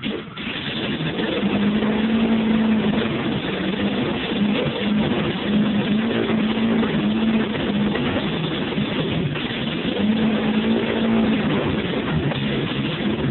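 VAZ 1.6-litre four-cylinder engine running, its note wavering slightly up and down. The level dips briefly right at the start, then the engine runs on steadily.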